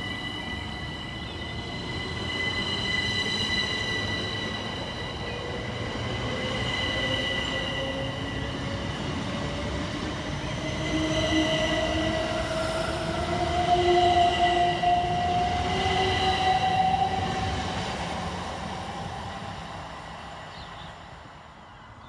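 Two coupled Class 387 Electrostar electric multiple units pulling away, their traction motors whining in a pitch that climbs steadily as the train accelerates. The sound is loudest about two-thirds of the way through, then fades as the train leaves.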